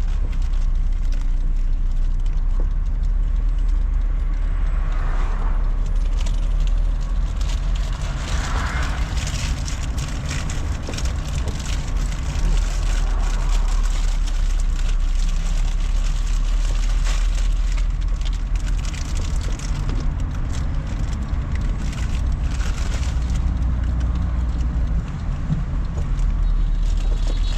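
Car driving, heard from inside the cabin: a steady low rumble of engine and road noise, with a couple of brief swells of hiss and scattered light knocks and rattles.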